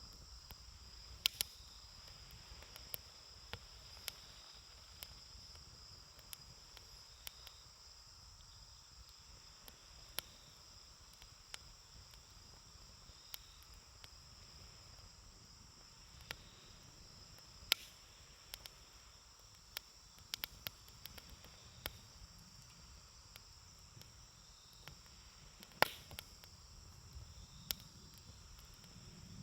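Wood campfire crackling: irregular sharp pops and snaps, one every second or two, the loudest about 26 seconds in. A steady high-pitched trill runs underneath.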